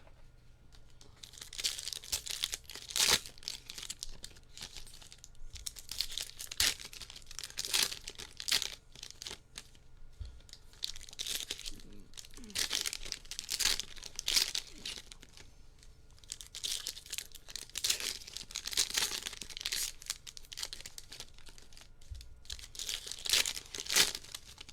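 Sealed trading-card packaging being ripped open: crinkly plastic wrap and card pack wrappers tearing and crumpling in repeated irregular bursts.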